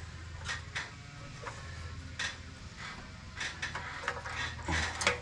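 Scattered light metallic clicks and clinks of small metal go-kart parts and tools being handled, over a steady low hum.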